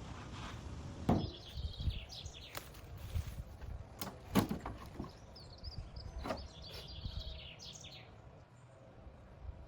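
Birds chirping in two short runs of quick twittering calls, with a few sharp knocks in between.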